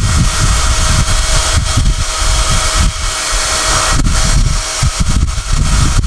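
SOUNATE high-airflow hair dryer blowing steadily with a thin whine over its rush of air, the air stream buffeting the microphone in uneven gusts.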